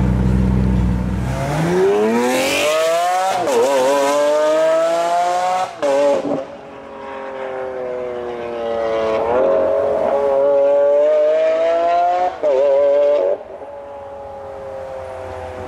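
Supercar engine accelerating hard from a low idle, its pitch climbing and dropping back at several gear changes.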